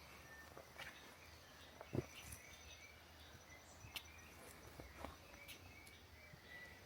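Faint forest ambience: scattered distant bird chirps and a thin insect hum, with a few soft knocks, the clearest about two seconds in.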